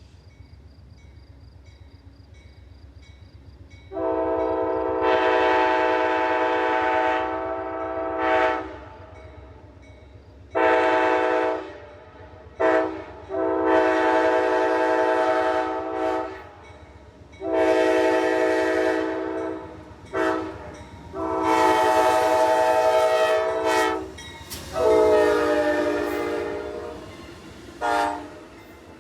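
Amtrak diesel passenger locomotive's multi-chime air horn sounding a string of long and short blasts as the train approaches and passes, starting about four seconds in. The horn's pitch drops slightly in the later blasts, and a low rumble of the train runs beneath.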